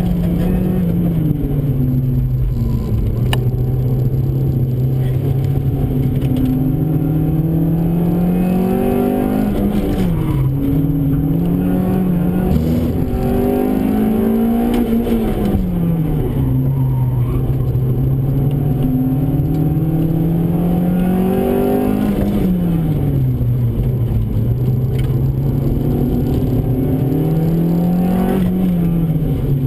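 Honda Civic's B16A2 1.6-litre DOHC VTEC four-cylinder engine heard from inside the cabin under hard driving, its pitch climbing under acceleration and dropping away several times as the driver lifts, brakes and changes gear.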